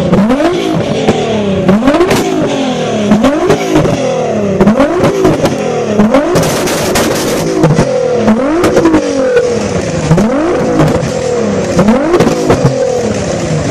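Nissan GT-R's twin-turbo V6 revved hard again and again, about eighteen quick blips that each rise and fall in under a second. Sharp exhaust pops come between the revs.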